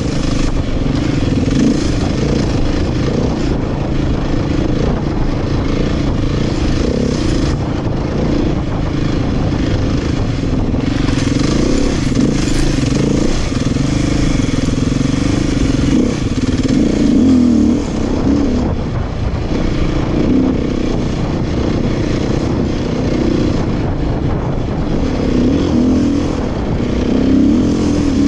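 Beta 500 four-stroke single-cylinder dirt bike engine running under load off-road, its revs rising and falling continuously as the rider works the throttle.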